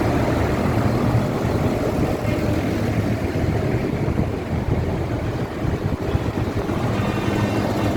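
Tractor engines running steadily with a low rumble.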